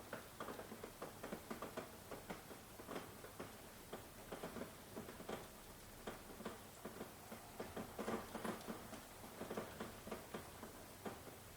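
Rain falling: a soft steady hiss with many irregular drops tapping close by.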